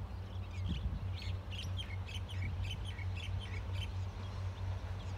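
A bird calling in a quick series of short, high chirps for about three seconds, over a steady low hum.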